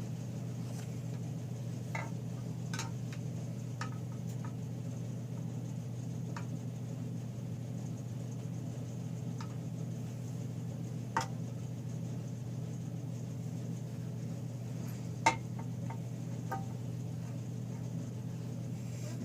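Scattered light metallic clinks and taps of small engine parts and hand tools being handled during reassembly, with two sharper clinks past the middle, over a steady low hum.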